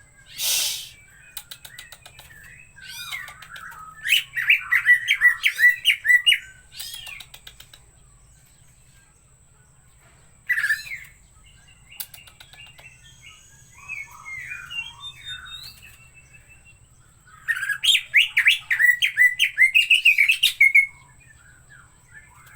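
Green leafbird (cucak hijau) singing in two long runs of rapid, varied chattering notes, one a few seconds in and one near the end, with scattered single calls between. There is a brief whoosh just after the start, and a faint steady high whine underneath.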